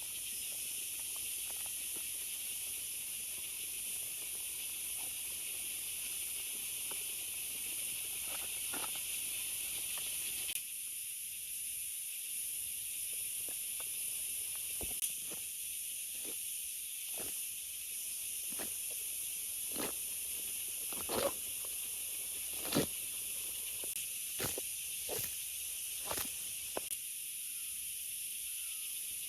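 Steady hiss of heavy rain falling in forest, with scattered sharp knocks and clicks from about halfway on.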